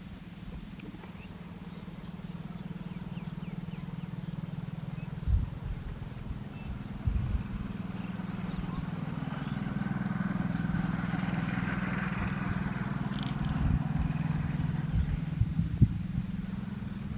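An engine running steadily with a low hum that slowly grows louder, with a few sharp low thumps.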